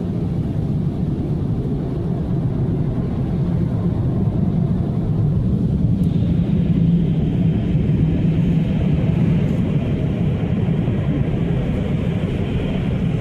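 Automatic car wash machinery running with a loud, steady low roar. About six seconds in, a higher hiss joins it and holds.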